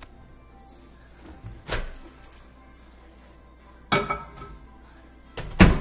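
Microwave oven door being opened and shut as a frozen meal tray goes in: three separate knocks and thuds, the loudest near the end.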